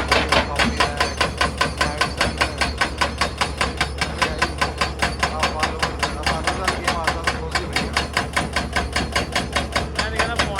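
Excavator-mounted hydraulic rock breaker hammering on stone in a fast, even rhythm of about five blows a second, over the steady low hum of the machine's engine.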